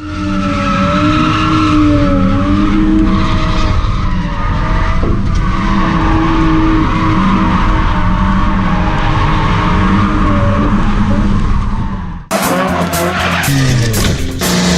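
Drift car engine held at high revs with its tyres squealing through a slide. About twelve seconds in the sound cuts abruptly to another drift run, the engine revving up and down.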